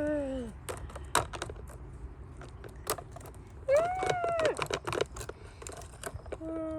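Hard plastic toy pieces clicking and clattering. Three short pitched voice sounds, each rising then falling, come at the start, about four seconds in, and at the end.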